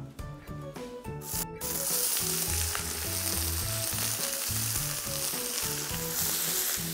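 Chicken sizzling on a very hot flat griddle plate. The frying hiss starts suddenly about one and a half seconds in, as the meat goes onto the hot plate, and then holds steady over soft background music.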